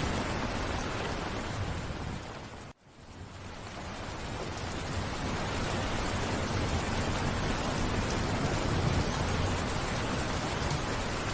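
Heavy rain falling in a steady, dense hiss. A little under three seconds in, it cuts out to near silence for an instant, then fades back up over a second or two.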